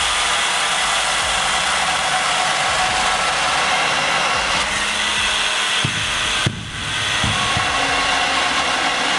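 A power saw running steadily, with a short drop-out about six and a half seconds in.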